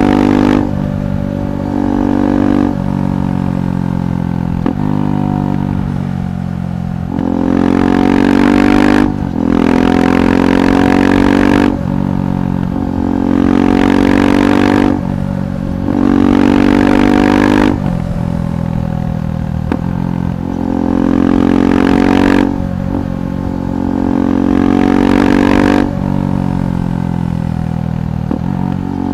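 KTM 390 Adventure SW's single-cylinder engine through a Red Rooster aftermarket exhaust, ridden on the road: the engine note climbs in repeated pulls, each cut short by a brief break at a gear change, with a few softer off-throttle stretches between them.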